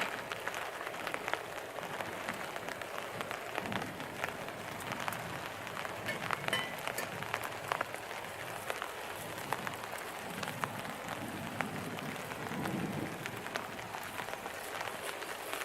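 Food frying in a pan over a campfire: a dense, steady sizzle with many small crackles and pops.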